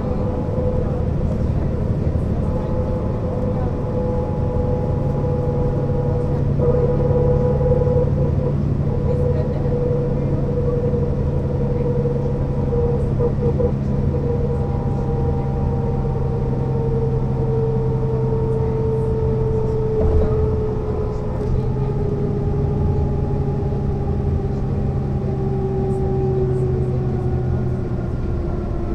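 Mercedes-Benz O 405 NÜ low-floor bus under way: a steady engine rumble with a drivetrain whine that slowly falls in pitch, then drops faster near the end as the bus slows.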